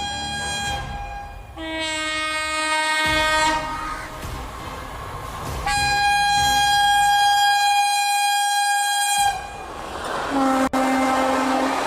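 Locomotive horn of the Mumbai Rajdhani Express sounding four blasts that alternate between a high and a low tone: short, then about two seconds, then a long steady blast of about three and a half seconds, then a short low one near the end. Rushing noise of the fast train passing grows over the last couple of seconds.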